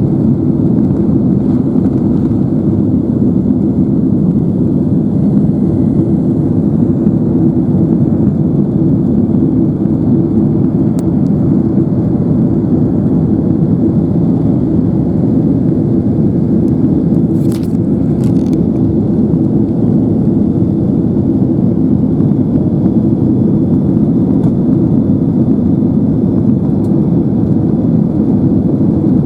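Steady cabin noise of a Boeing 767-300ER in motion, a loud even rumble of engine and airflow heard from inside the passenger cabin. A couple of faint clicks come a little past halfway.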